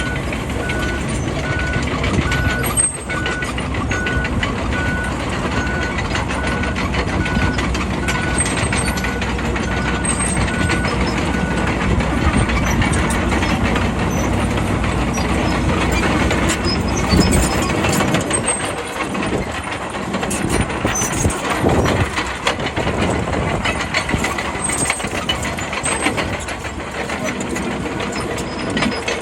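Bulldozer's diesel engine running loud and steady while its reversing alarm beeps about once a second through the first part. The alarm stops and the deep engine rumble eases off about two-thirds of the way through.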